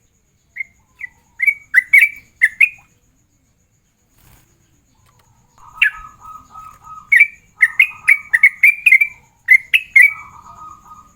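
Yellow-vented bulbul (trucukan) singing in full voice: two runs of short, loud, bubbling notes with a pause between them. The second run is carried over a lower, rapid chatter.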